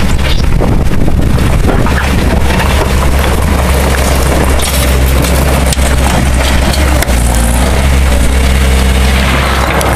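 Loud, steady low rumble of a heavy machine's engine running, with a constant hiss over it.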